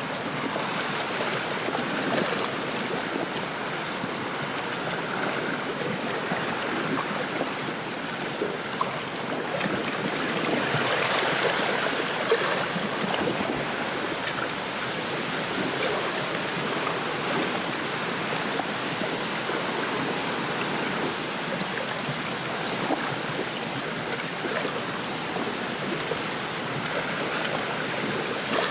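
Wind rustling through a reed bed with small waves lapping at the lake shore, a steady wash of noise that swells briefly with a stronger gust about a third of the way in.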